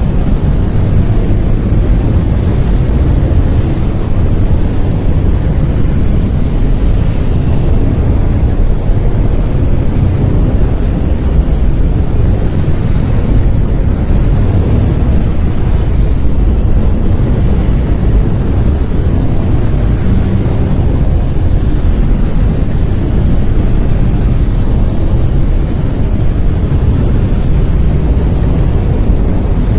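Brown noise: a steady, loud, deep rumbling hiss, strongest in the low end and falling off toward the highs, with no change.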